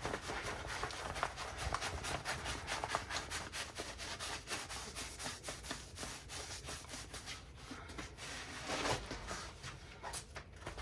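Diamond painting canvas rustling and crinkling with many small crackles as it is rolled backwards against its curl to make it lie flat, somewhat louder about nine seconds in.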